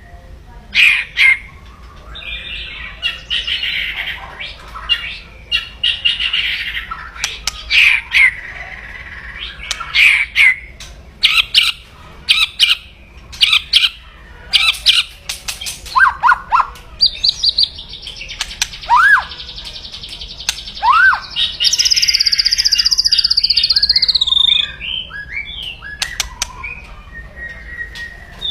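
White-rumped shama giving harsh, loud 'kretekan' calls: rapid sharp clicks and scratchy buzzing rattles, with a few short rising whistles in the middle and a long buzzing rattle from about 17 to 24 s. This is the bird's aggressive challenge call, used to rile rival birds.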